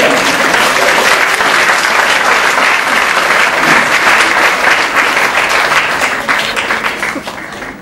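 Audience applauding: a burst of clapping that starts all at once, holds steady, then dies away near the end.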